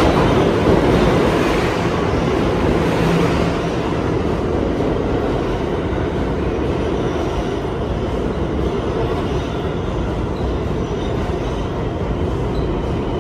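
New York City subway train running through an underground station, a steady rumble and rush of wheels on the rails, loudest in the first few seconds and then holding at an even level.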